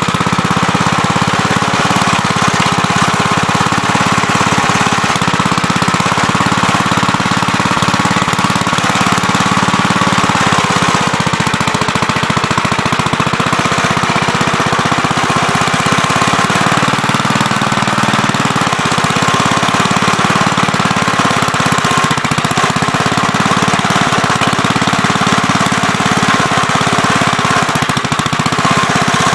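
Gravely Terramite backhoe's engine running steadily and loudly, with no let-up.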